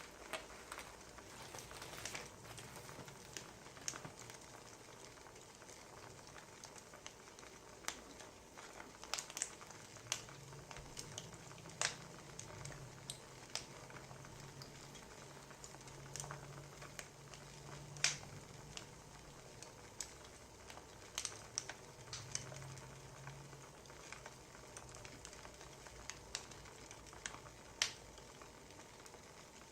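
Wood fire crackling: irregular sharp pops and snaps over a soft steady hiss. A faint low hum comes in midway and fades again.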